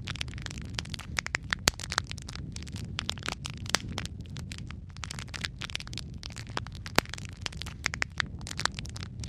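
Log fire in a fireplace crackling, with many sharp pops and snaps over a steady low rumble of the flames.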